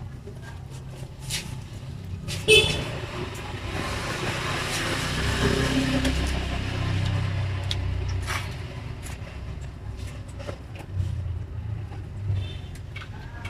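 A road vehicle passing by: a low rumble and rushing noise that swell over a few seconds and fade away. About two and a half seconds in, a short toot comes before it and is the loudest moment.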